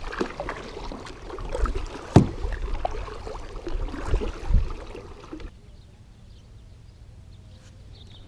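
Paddling a Lifetime Tamarack Angler 100 fishing kayak: irregular paddle strokes and knocks, the sharpest knock about two seconds in. It turns much quieter after about five and a half seconds.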